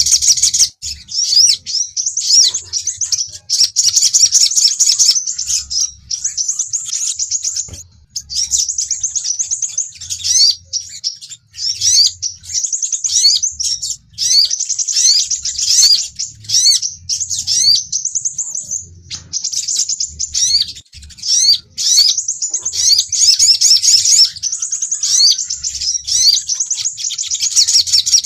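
Sunbird lure recording: rapid, high-pitched twittering chirps and quick sweeping notes in long runs, with brief breaks between phrases.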